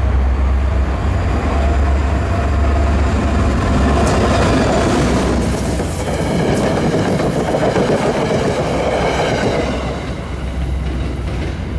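Diesel-hauled commuter train passing at speed behind an EMD GP40-type locomotive. A low engine drone dominates the first half. The wheels' rolling rumble on the rails grows loudest as the coaches go by, then eases off about ten seconds in.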